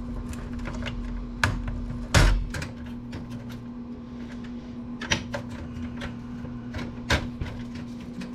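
Computer parts being handled during disassembly: scattered small clicks and taps, with four louder knocks, the loudest about two seconds in, over a steady low hum.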